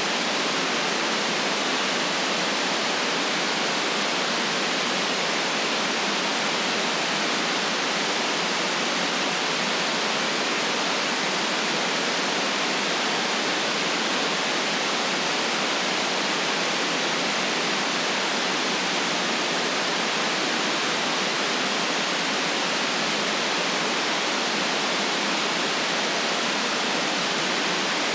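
Steady generated white noise: an even, unchanging hiss with no deep rumble beneath it.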